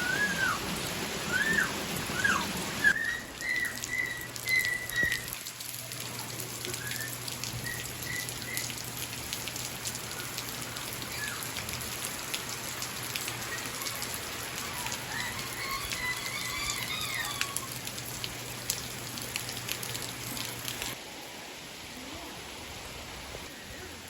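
Steady heavy rain falling, with birds calling in short rising and falling chirps during the first few seconds and again about two-thirds of the way through. A faint low steady hum runs under the rain through most of the middle.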